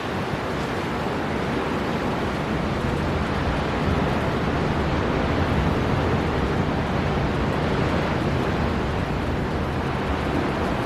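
Storm wind blowing hard over surf at a steady level, buffeting the microphone with a low rumble.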